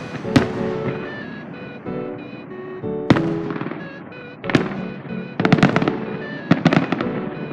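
Aerial fireworks shells bursting. There are single bangs about half a second, three seconds and four and a half seconds in, then rapid clusters of cracks near the end, all over steady background music.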